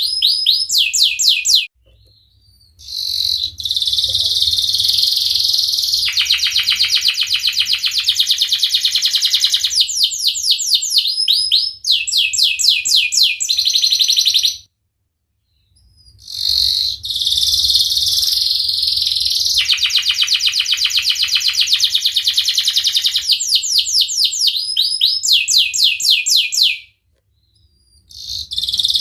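Domestic canary singing long phrases of rapid, repeated trills and rolls, high and loud, broken by brief pauses about 2, 15 and 27 seconds in.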